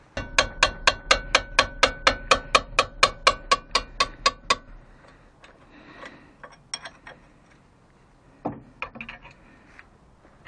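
A steady run of about twenty sharp metallic clicks, some four or five a second, with a ringing tone, from a hand tool working on the steel strut bolts of a car's front suspension; after about four and a half seconds it gives way to a few scattered lighter clicks and knocks.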